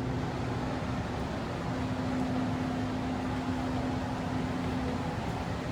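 Steady air-conditioning hum with a low tone that drops out briefly about a second in and fades near the end.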